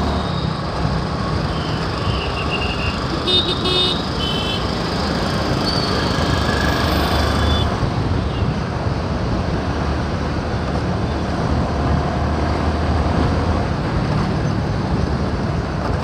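Steady road and traffic noise heard from a moving two-wheeler in dense traffic, with other vehicles' horns honking several short times in the first half.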